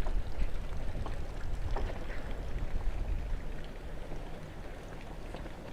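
Mercedes-AMG SL 63's fabric soft top opening under power: a low, steady mechanism hum with a few faint clicks.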